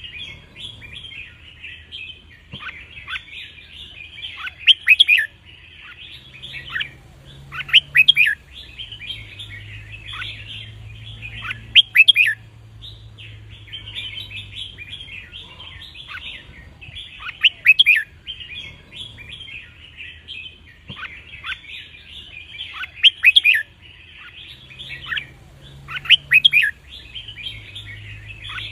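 Red-whiskered bulbul song: loud, sharp whistled phrases about every three to four seconds over steady chattering, played for young birds to learn from.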